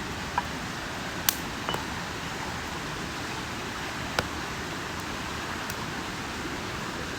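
Wood campfire burning with a steady hiss and a few sharp crackling pops, the loudest about a second in.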